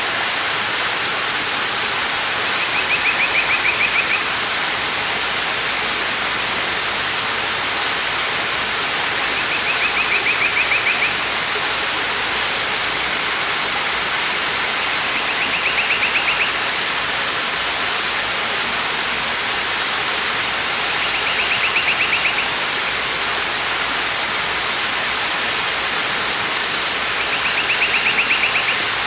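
Waterfall rushing steadily, with a bird's rapid trill, about a second and a half long, repeated five times at roughly six-second intervals.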